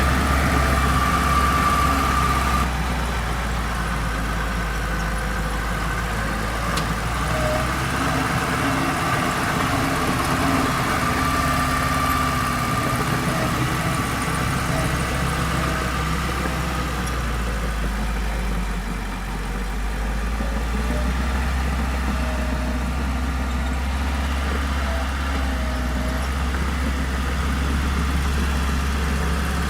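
Diesel engine of heavy earthmoving machinery running steadily, with a high whine heard at the start and again about twelve seconds in.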